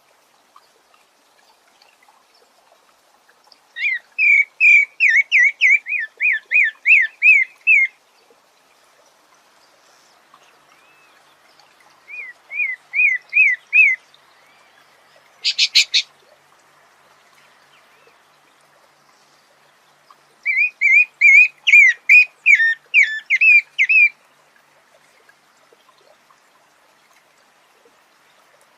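A sabiá (Brazilian thrush) singing in three bursts of rapidly repeated clear, whistled notes, each lasting a few seconds, with a brief harsh call about midway.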